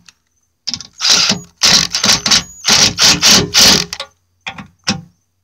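Screw gun driving the door striker bolts of a Ford F250 in short trigger bursts, a rapid mechanical rattle that starts and stops several times, with two brief bursts near the end. The bolts are run in gently because they strip easily.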